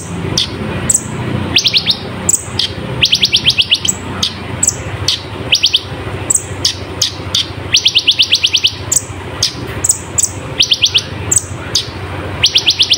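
Kolibri ninja sunbird singing loud, high song: quick trills of about eight rapid notes each, repeated every second or two, mixed with sharp falling chip calls.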